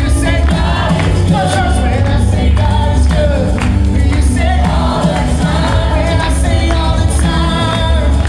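Live gospel praise music: a choir or worship team singing over a band with heavy bass and a steady beat.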